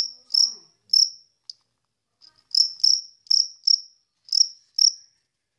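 Cricket chirping: short, high, clean chirps in uneven groups. Three come in the first second and a half, then after a short pause about seven more follow close together.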